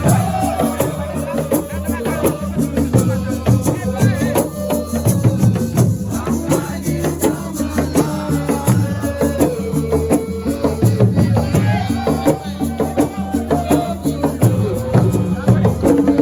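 Live percussion music: drums and shaker rattles playing a fast, dense rhythm under a singing voice.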